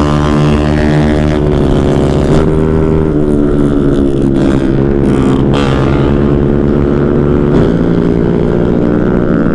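Motorcycle engine running hard at high revs while riding, its pitch dipping and climbing again a few times.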